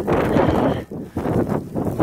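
Wind gusting over the phone's microphone in a snowstorm, a loud rushing buffet that drops away briefly a few times.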